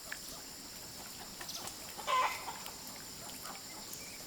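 Chickens clucking, with one short, louder call about two seconds in and faint scattered clucks around it, over a steady high-pitched background drone.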